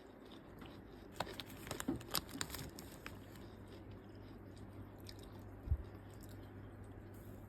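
A person chewing a crunchy snack, with a run of crisp crunches between about one and three seconds in and a single low thump later on.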